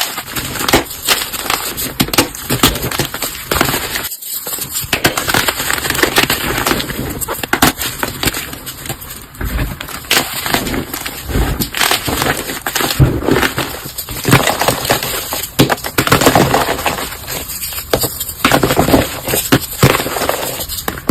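Brittle material being crushed: dense, continuous crunching and crackling made of many sharp cracks in quick succession, with a brief gap about four seconds in.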